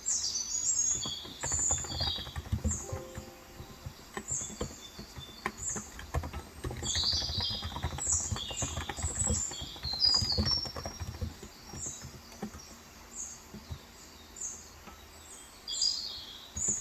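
Typing on a Cox Endeavor electrostatic capacitive (Topre-style, 35 g) tenkeyless keyboard: soft, irregular keystrokes. Small birds chirp over it in clusters of short high calls, busiest in the first two seconds, around the middle and near the end.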